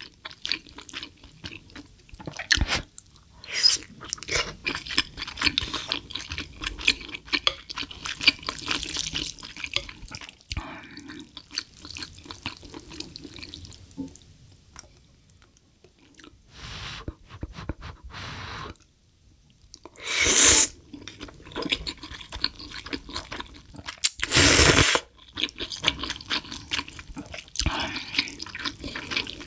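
Close-miked eating of ramyun noodles and side dishes: wet chewing and mouth clicks, with two loud slurps about twenty and twenty-four seconds in.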